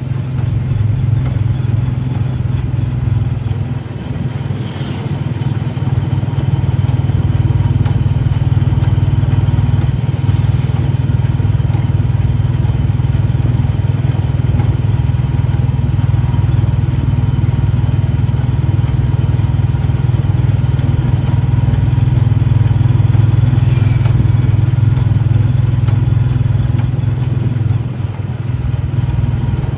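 An engine running steadily with a low, even hum and no change in speed.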